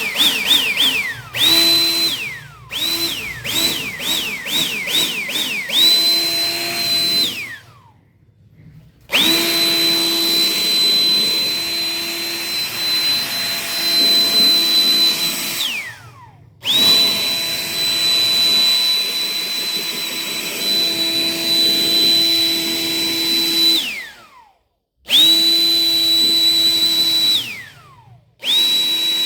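Small high-speed electric blower motor, used to blow dust off the refrigerator's condenser, triggered in bursts. First comes a string of quick pulses, then longer runs of a few seconds each, with a high steady whine that falls away in pitch each time it is released and spins down.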